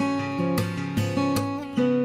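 Background music: acoustic guitar strummed in a steady rhythm, chords changing about every half second.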